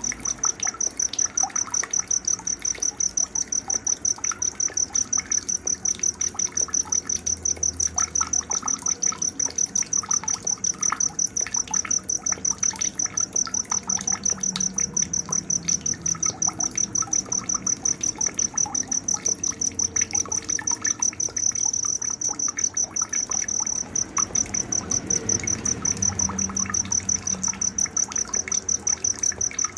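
A cricket chirping without pause in a fast, even, high-pitched pulse, the loudest sound, with scattered short bird calls and a faint trickle of water beneath it.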